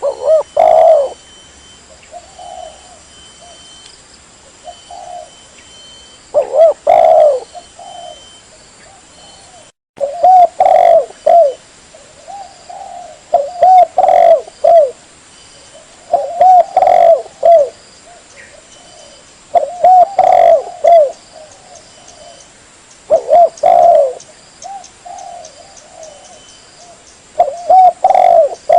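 Spotted dove cooing: loud phrases of a few low coos that come every three to four seconds, with fainter coos in between.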